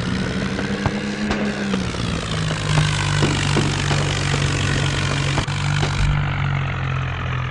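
Mahindra Arjun Novo tractor's diesel engine running steadily, its note a little higher for the first two seconds before settling, with scattered knocks and rattles.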